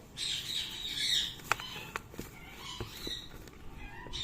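Indian ringneck parrot squawking, harsh and loudest in the first second or so, then softer calls with a few sharp clicks in between.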